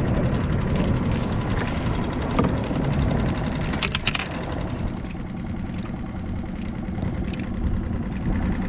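Skiff's outboard motor idling steadily, with a few light clicks about four seconds in.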